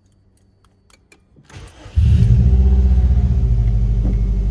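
A few light clicks, then a 2005 Subaru Impreza's flat-four engine cranks briefly and catches about two seconds in, settling into a loud, steady idle.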